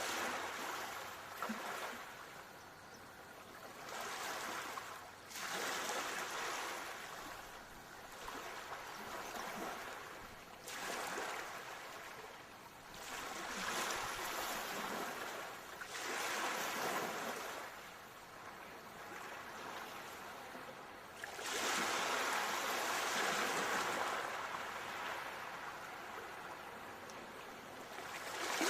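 Ocean surf: waves washing in and breaking in swells every few seconds, with a longer, louder surge about two-thirds of the way through.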